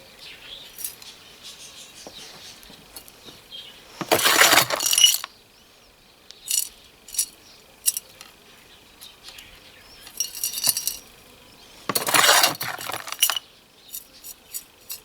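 Light clinks and taps of small tools and pot being handled, with two louder rustling, scraping bursts of about a second each, one about four seconds in and one about twelve seconds in.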